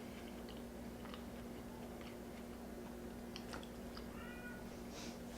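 Quiet eating sounds, small clicks of chewing and food, over a steady low hum, with one short, faint cat meow about four seconds in.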